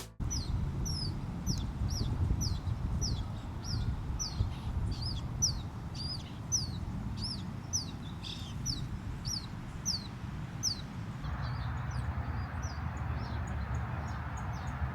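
A bird calling over and over with short, high chirps that slide downward in pitch, about two a second, over a steady low outdoor rumble. About eleven seconds in, the chirps grow fainter.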